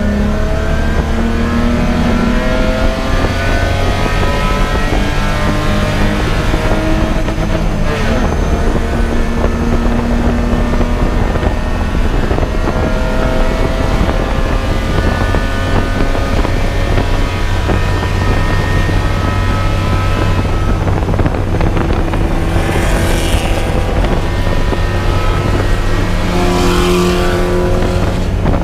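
A race car's engine under hard acceleration on a road course. The pitch climbs steadily and falls back at each gear change, several times over.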